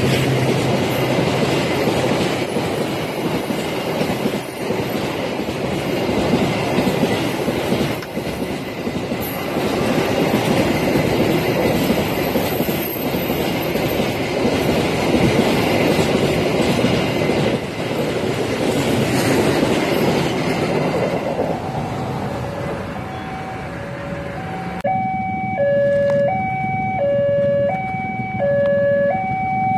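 Container wagons of a long freight train rolling past, a steady rumble of steel wheels on rail. About 25 seconds in this cuts abruptly to an electronic two-tone warning signal that alternates between two pitches about once a second.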